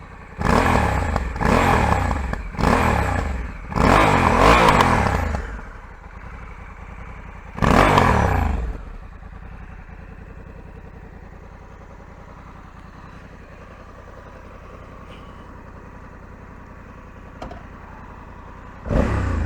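2020 Honda Africa Twin DCT's 1084 cc parallel-twin engine idling and being blipped on the throttle: four quick revs in the first five seconds, the fourth held longer, another about eight seconds in, and a short one near the end.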